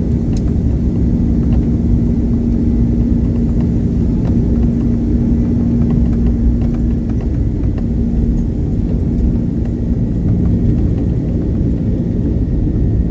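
Steady low rumble of an Airbus A330's jet engines and airflow heard inside the passenger cabin, with a steady low hum running under it.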